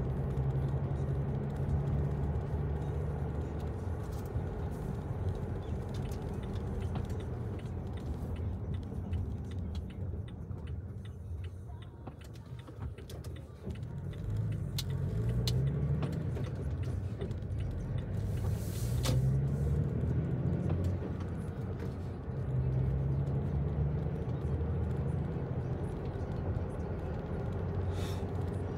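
A motor vehicle running with road noise. The engine note rises twice in the second half as it speeds up.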